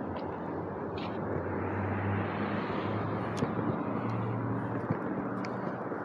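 Steady outdoor background rumble with a low hum, swelling about two and a half seconds in and easing off again, with a few faint ticks.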